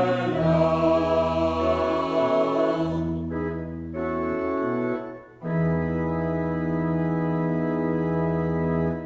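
Organ finishing a hymn: the congregation's last sung note fades in the first few seconds, then the organ plays two sustained chords, the final one held about three and a half seconds before it stops.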